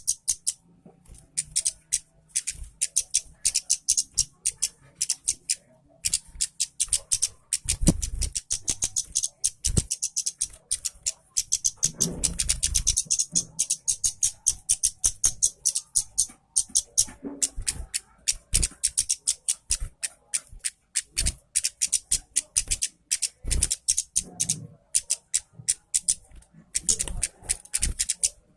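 Red-headed kemade, a small cage songbird, singing a fast, high, scratchy chattering song almost without pause.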